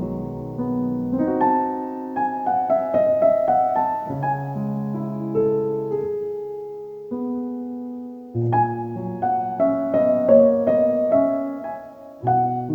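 Solo piano background music, gentle phrases of melody over held bass notes.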